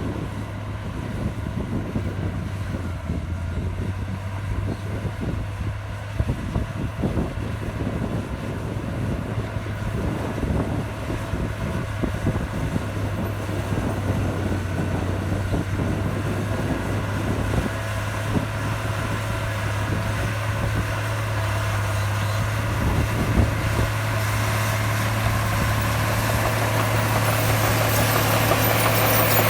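Diesel engine of heavy earthmoving machinery running steadily with a low, even hum, gradually growing louder toward the end.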